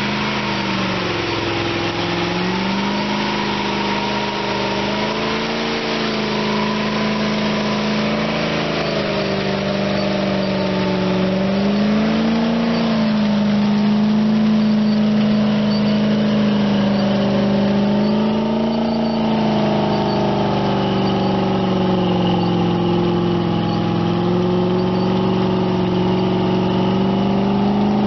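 Off-road 4x4's engine revving hard under load as it churns through deep mud, its pitch wavering up and down as the throttle is worked.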